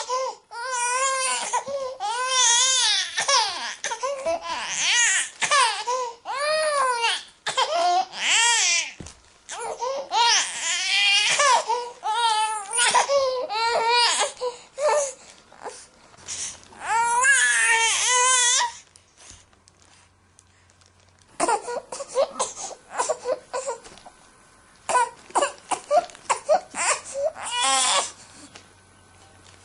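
Infant crying: a long run of loud, wavering wails, one after another, for the first two-thirds. Then comes a short lull, then shorter choppy fussing cries and a final longer wail near the end.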